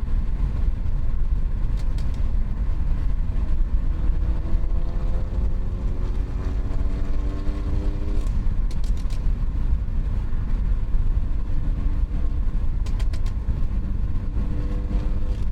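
A muffler-deleted BMW 540i's 3.0-litre turbocharged B58 inline-six and its exhaust, with a deep, steady rumble under road noise. About four seconds in, the engine note climbs slowly in pitch for a few seconds as the car accelerates, then falls back to steady cruising.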